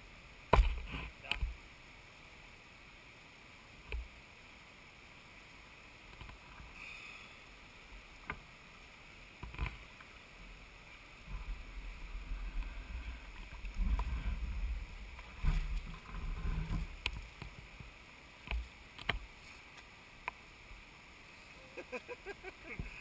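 Water sloshing and splashing close to the camera, with scattered knocks and irregular low muffled thumps over a faint steady hiss.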